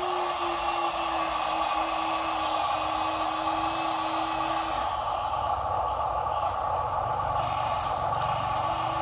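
Small electric motors and plastic gearboxes of toy RC trucks running with a steady whine. About five seconds in, the whine tone stops and a lower rumble takes over.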